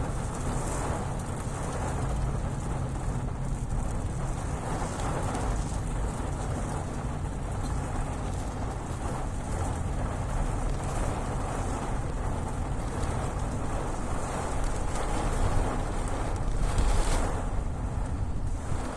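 Steady, fairly heavy rain falling, with a low rumble underneath and a brief swell in loudness near the end.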